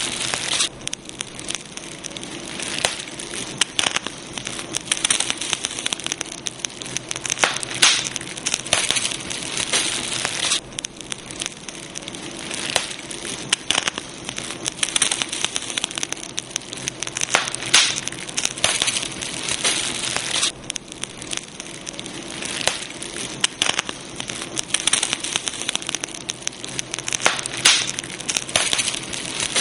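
Campfire burning steadily, wood crackling and popping in irregular sharp snaps over a constant hiss.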